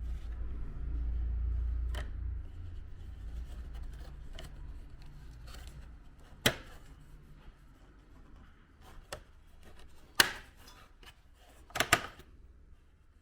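Scattered sharp clicks and knocks as parts of an air conditioner's indoor unit are handled and fitted back together, with a low rumble in the first couple of seconds. The loudest knocks come near the end.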